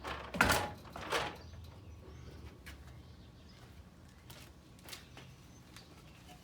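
Lumber being handled: two short scrapes of wood on wood in the first second or so, then faint scattered clicks and taps.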